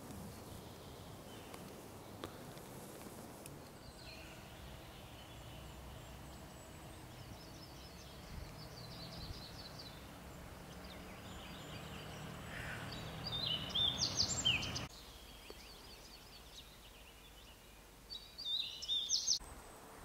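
Songbirds singing in a conifer forest: quick high-pitched song phrases about two-thirds of the way in and again near the end, with fainter chirps before, over a soft steady outdoor background.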